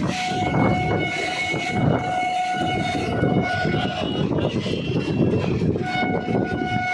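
Train horn sounding: one long steady blast, then a second starting near the end, over the continuous rumble of the moving train.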